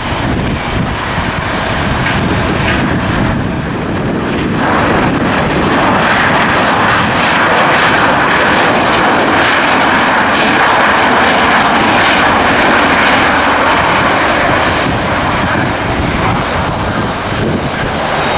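Airliner engines as a plane passes at the airport: a broad rushing engine noise that swells about four seconds in, holds loud through the middle and eases a little near the end.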